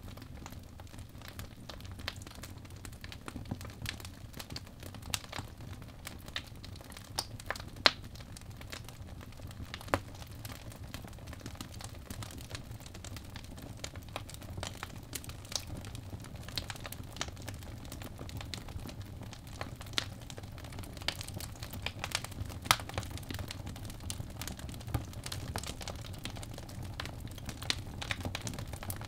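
Birchwood logs burning in a fireplace: irregular sharp crackles and pops over a steady low rumble of the flames, with a few louder pops.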